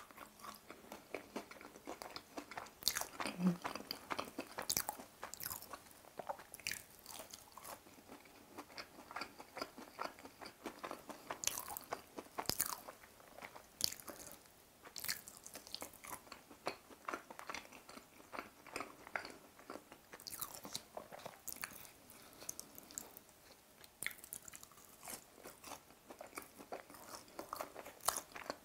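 Close-up chewing and biting of a breaded, deep-fried chicken cutlet (Lotteria G-Pie), the crisp crust crunching in many short, irregular crackles.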